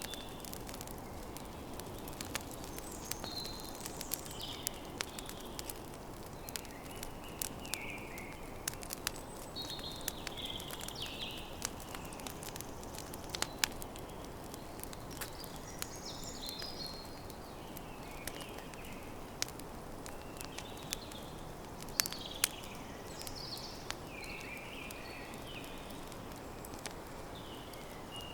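Campfire crackling, with frequent sharp pops over a steady low rush, while birds sing in short chirping phrases throughout.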